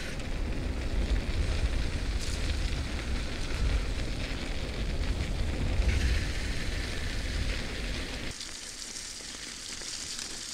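Wind rumbling on the microphone over the hiss of bicycle tyres rolling along a woodland trail. The low rumble drops away about eight seconds in, leaving a higher, lighter hiss.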